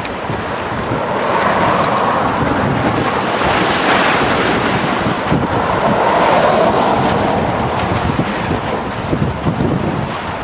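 Wind buffeting the microphone over a rushing of surf, swelling twice.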